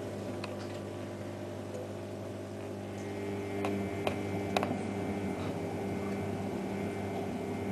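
Privileg Ergonomic 1600 S washing machine running with a steady hum and a few sharp clicks, slightly louder a little after three seconds in.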